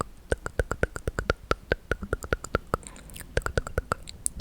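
Close-miked ASMR mouth sounds: rapid 'tk tk' tongue clicks, about five a second, breaking off briefly near the end before starting again.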